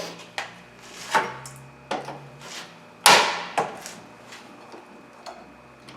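A series of sharp clacks and knocks from parts and cables being handled in an engine bay, loudest about three seconds in, with a brief ring after it.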